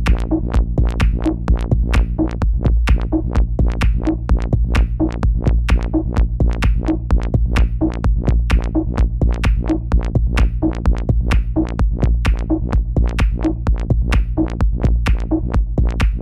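Experimental techno loop made with Ableton Live 10's built-in instruments and effects: a steady drum-machine pattern of quick clicks and hits over a constant low bass drone.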